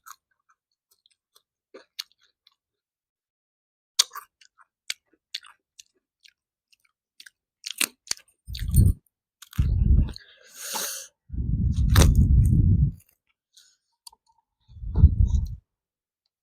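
Close-miked eating of matar paneer with puri: soft wet mouth clicks and smacks at first, then louder spells of chewing in the second half, with a brief crisp crunch in the middle.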